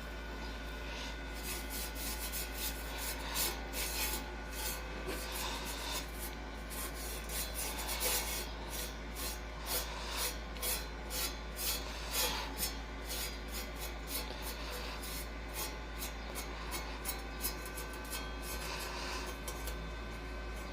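Brush scrubbing rust converter onto bare steel, scratchy strokes about two a second.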